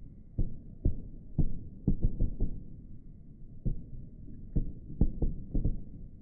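Fireworks exploding: a string of about a dozen low, dull booms at irregular spacing, bunched at the start and again near the end with a short lull between.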